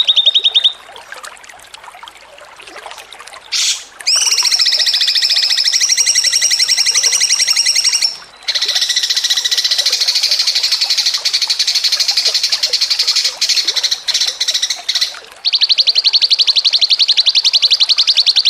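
A songbird singing long, rapid trills of quickly repeated high notes, each run lasting several seconds. The runs break off briefly three times, with the longest pause about a second in.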